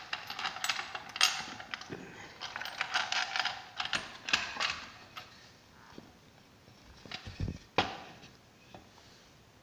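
Clicking, clattering and knocking of a wooden workpiece and its metal hold-down clamps being handled as the carving is taken off the CNC machine bed. The clicks come thick and fast for about five seconds, then thin out, with a heavier knock about eight seconds in.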